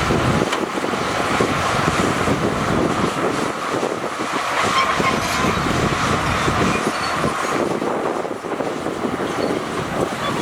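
Heavy earthmoving machinery working, its diesel engine running steadily under a dense, continuous clatter.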